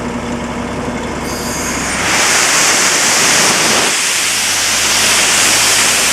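Ingersoll Rand 175 tow-behind air compressor running on its air-cooled three-cylinder Deutz diesel; about two seconds in, a loud steady rush of compressed air starts as a service valve is opened and blows freely.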